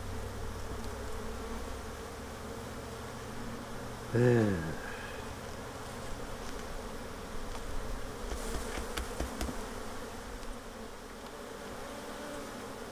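Honeybees buzzing steadily around an open hive. About four seconds in, one bee passes close by, its buzz loud for a moment and dropping in pitch. A few faint clicks follow later.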